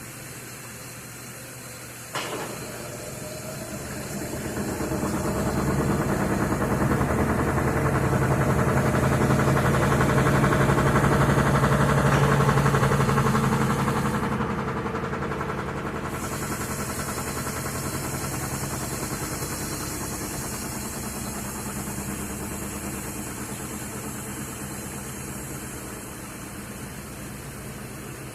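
Electrolux LTD13 top-loading washing machine in its spin cycle: a click about two seconds in, then the motor and drum speed up and grow louder into a steady hum that eases off a little in the second half.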